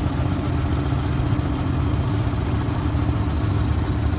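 Dinghy outboard motor running steadily at low speed.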